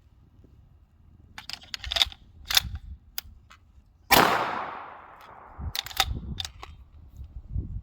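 40mm launcher firing a multi-shot beehive insert: a scatter of sharp cracks, then one loud bang about four seconds in with a hissing tail that fades over a second, then a few more cracks. The shots come irregularly rather than as a full volley, as this insert does not fire every round.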